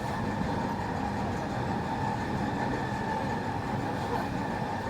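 Semboku 9300 series electric train running steadily at speed: an even rumble of wheels on the rails with a steady hum, and no change through the whole stretch.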